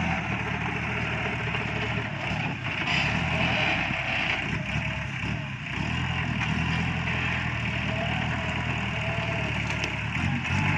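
Iseki NT554 tractor's diesel engine running at a steady speed, a continuous mechanical hum, while it works a front grapple.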